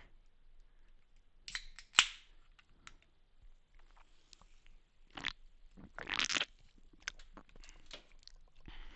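Drinking soda from a can: a few short, quiet slurps and swallows, with a sharp click about two seconds in.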